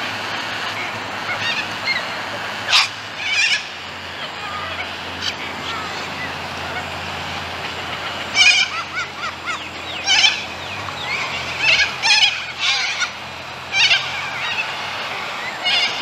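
Waterbirds calling: about ten short calls at uneven intervals, some in quick clusters, over a faint steady low hum.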